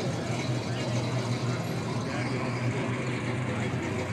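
Car engines idling and running steadily, with a constant low hum.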